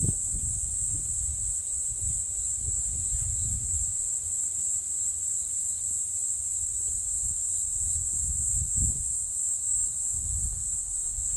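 Steady, unbroken high-pitched chorus of insects, such as crickets or cicadas, with irregular low rumbles of wind on the microphone.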